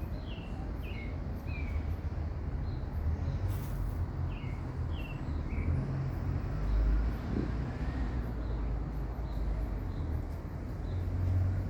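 A songbird calling in short, high, falling chirps, a run of them in the first six seconds and a few fainter notes later, over a steady low rumble that is louder than the birds.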